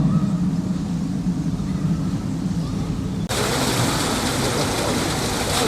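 A steady low drone, then about three seconds in an abrupt switch to the even, full hiss of rushing water.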